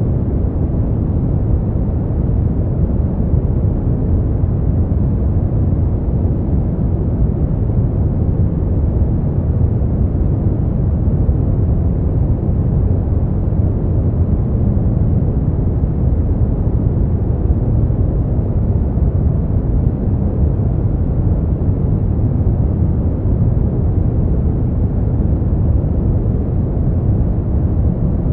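Steady brown noise: an even, unchanging rumbling hiss, strongest in the low end and dying away in the highs, with no events or changes.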